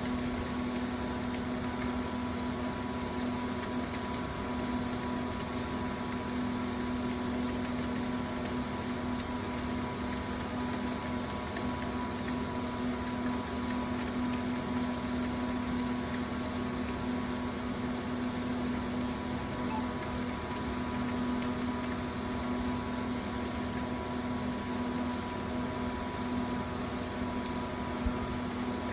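Steady hum with a constant low tone and an even hiss, unchanging throughout; no keystrokes or other events.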